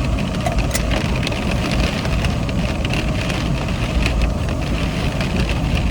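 Steady rushing noise with a low rumble that swells and eases: strong wind buffeting the parked car, over a stove heating a kettle that is close to the boil, with faint ticking throughout.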